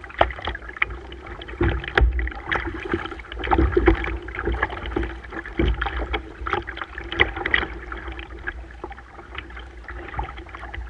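Water splashing and slapping irregularly around a kayak, over a steady low rumble.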